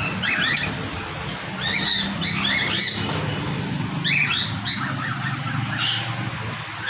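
A parrot, presumably the African grey, giving short squawks and chirps, about half a dozen spread through a few seconds, over a steady low hum.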